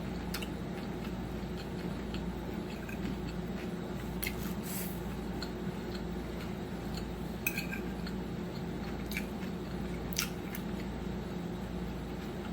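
A person eating: soft chewing with a few light clicks of cutlery on a plate, over a steady low hum.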